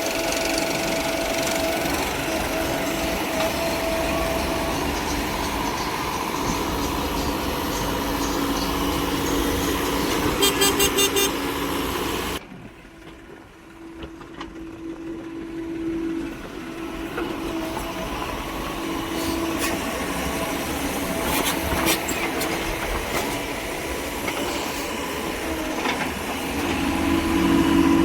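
Vehicle engines running with horns honking; the sound cuts off abruptly about twelve seconds in, then builds back up.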